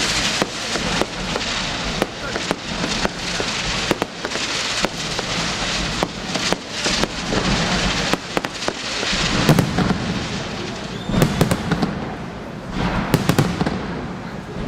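Fireworks display: a dense, steady run of sharp bangs and crackles over a continuous hiss, with heavier low bursts from about two-thirds of the way in.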